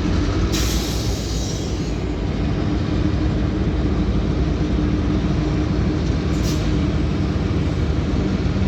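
Freight train moving at low speed: diesel locomotives running under a steady low rumble of rolling freight cars. Two short bursts of hiss come through, one about half a second in and a briefer one about six seconds in.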